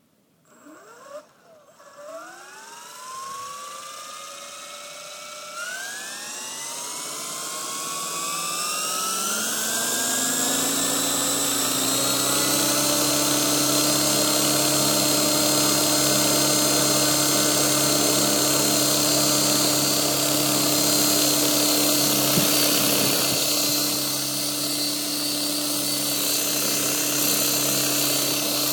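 Gaui Hurricane 550 RC helicopter's electric motor and rotor spooling up from rest, a whine rising steadily in pitch over about ten seconds, then settling into a steady whine and rotor buzz as the model hovers.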